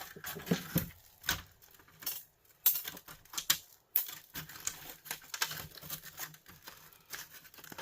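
Irregular clicks, taps and light clinks of small screws and metal and plastic parts being handled while a plastic electric heater is taken apart.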